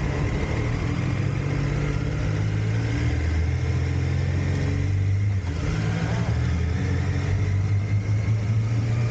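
Triumph Tiger Sport 660's three-cylinder engine running steadily under way, its pitch shifting in steps, with a short dip and change in note about five seconds in.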